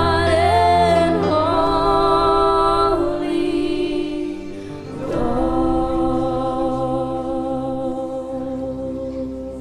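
Gospel worship music: sustained vocal singing over keyboard chords, with a long held note from about halfway that slowly fades.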